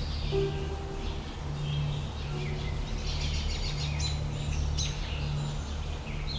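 Birds chirping and singing, with a low hum underneath that swells and fades about once a second.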